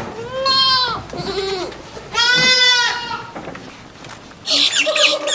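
Livestock bleating: two long, loud calls with a shorter, lower call between them. About four and a half seconds in, it gives way abruptly to rapid, high squawking chirps from a different animal.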